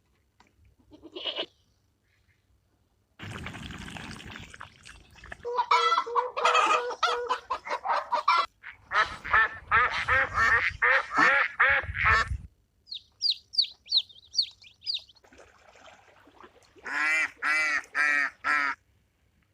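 Domestic waterfowl honking and quacking in fast runs of calls, in several short clips. In the middle comes a run of high, short, downward peeps.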